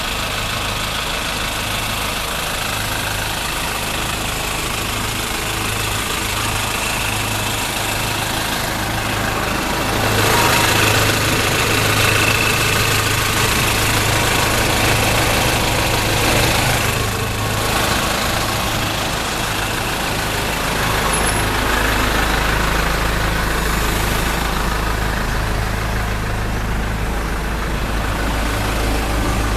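Titan truck engine running steadily, with a low rumble that swells louder about a third of the way in and again near the end.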